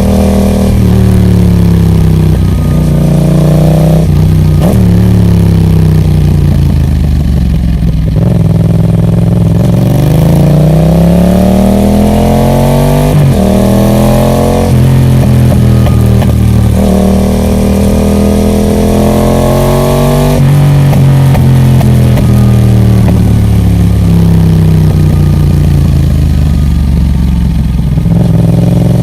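Yamaha MT-07's 689 cc parallel-twin engine through a Roadsitalia Special Carbon aftermarket exhaust, ridden under load. The engine note climbs several times as the bike accelerates and drops back sharply at gear changes or when the throttle is rolled off, most clearly about 13 s and 20 s in.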